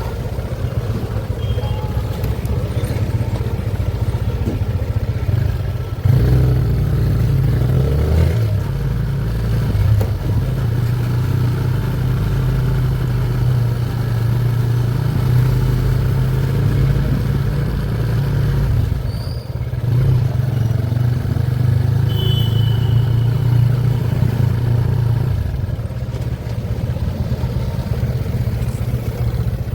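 A road vehicle's engine running steadily, its low hum getting louder about six seconds in and easing off briefly about two-thirds of the way through.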